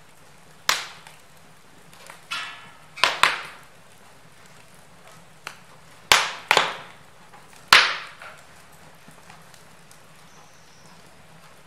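Log fire in a fireplace crackling: about seven sharp pops and snaps of the burning wood, several in quick pairs, each dying away in a short hiss, over a faint steady murmur of the flames.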